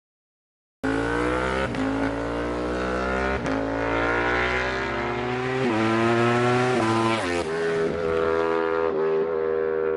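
Superbike engine accelerating hard through the gears, starting abruptly about a second in: its pitch climbs steadily and drops back with each upshift, several times.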